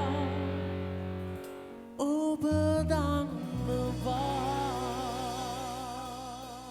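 Closing bars of a live acoustic band performance of a Sinhala song. Long held notes with vibrato ring over sustained low chords, a short new phrase comes in about two seconds in, and the music then fades away.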